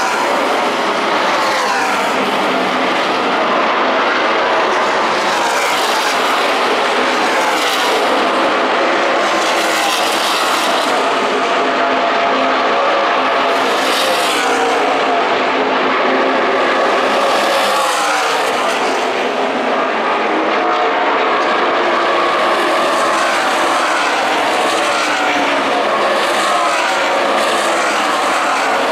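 A field of NASCAR Camping World Truck Series trucks racing at speed, several V8 engines running at high revs at once, their pitches shifting up and down as they pass.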